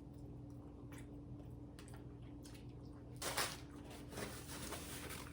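Faint sounds of eating a beefy 5-layer burrito: a few soft clicks, then a short squishy crunch about three seconds in, with smaller ones after, over a steady low hum.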